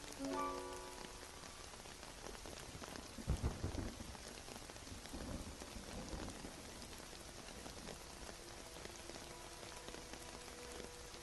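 Steady rainfall with a low rumble of thunder about three seconds in and a weaker rumble around five to six seconds. A few soft held music notes are heard just after the start and faintly near the end.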